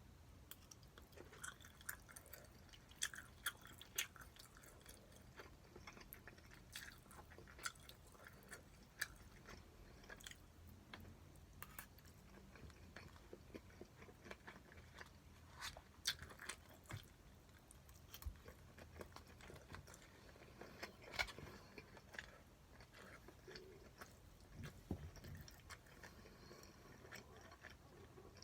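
A person eating spicy stir-fried pork: quiet chewing with many scattered small clicks and taps.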